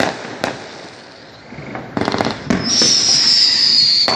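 Fireworks going off: a sharp bang about half a second in, a burst of crackling pops about two seconds in, then a loud high whistle that falls slowly in pitch over the last second and a half.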